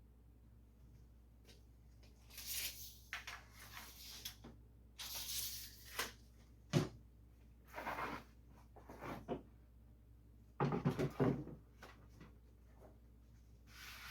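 Wooden truck-bed boards being handled and set aside: a series of scrapes and rubs, a single sharp knock about halfway through, and a quick rattle of knocks a few seconds later.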